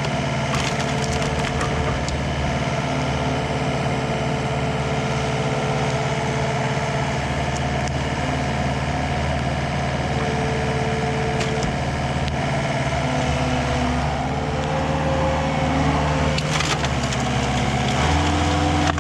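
Komatsu CK30 skid steer's diesel engine running steadily while its homemade hydraulic splitter crunches through firewood rounds, with occasional sharp cracking and splintering of the wood. The engine note steps up near the end.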